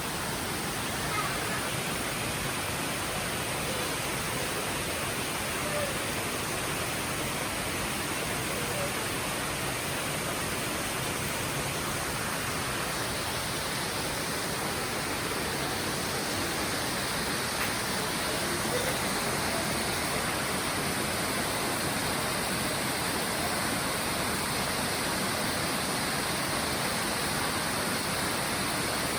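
Steady rain falling in a forest, a dense, even hiss with no let-up.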